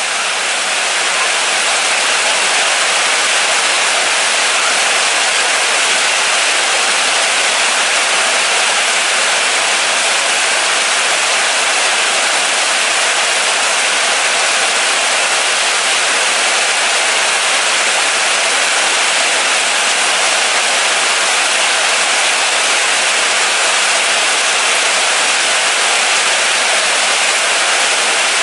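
Steady moderate rain falling, an even, dense hiss that fades in over the first second and holds without a break.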